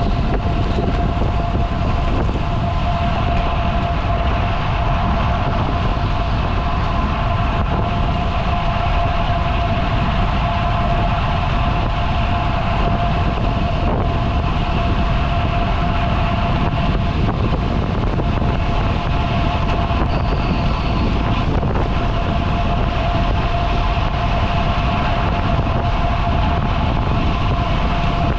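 Steady wind rush on the microphone and road noise from a road bike riding at speed, with a constant whine running through it.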